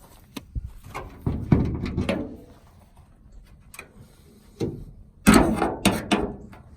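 Handling noise: a series of knocks, bumps and scrapes, one cluster about a second in and a louder one about five seconds in.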